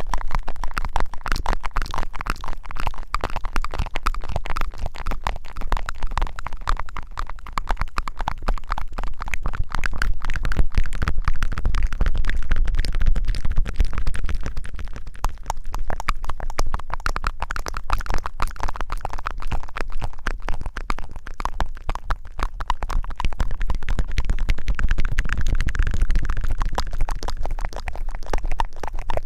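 Dense, continuous crackling and rubbing right against an ASMR microphone, with a low rumble underneath, as from scrubbing or scratching on the mic.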